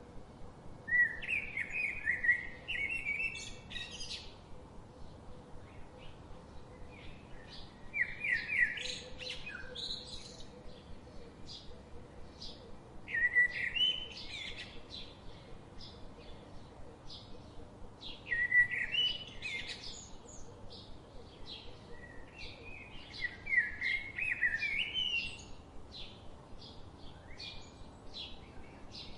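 A songbird sings a short, quick phrase of jumbled high notes, repeated five times about every five seconds. Faint short chirps are heard between the phrases.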